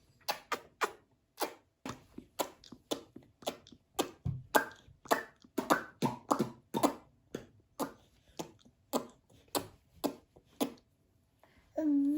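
A toddler making quick smacking and clicking mouth sounds while eating, about three short smacks a second, stopping about a second before the end.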